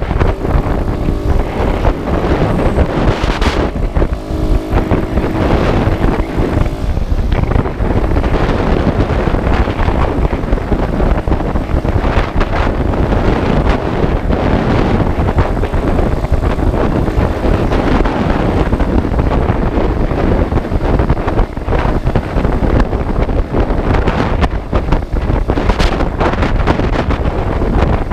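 Wind buffeting the microphone over steady engine and road noise, as heard riding a motorcycle. A short pitched tone, like a horn or a passing engine, sounds about four to six seconds in.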